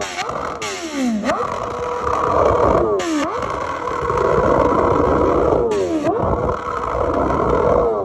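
BMW S1000RR inline-four engine revved three times. Each time the pitch climbs and then falls quickly back toward idle.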